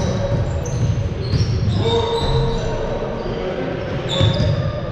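Basketball bouncing and sneakers squeaking in short high chirps on a gym court during a game, in a large echoing hall.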